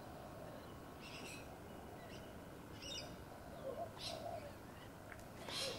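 Faint, scattered bird chirps, a few short calls spread over several seconds, over steady background noise.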